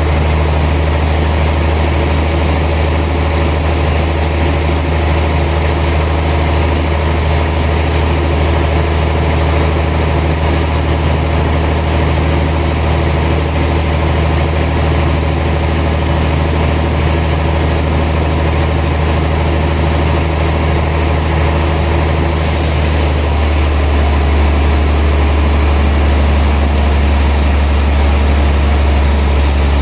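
Sawmill machinery running steadily with a loud, low engine hum. About three-quarters of the way through, the hum drops slightly in pitch and a high hiss comes in.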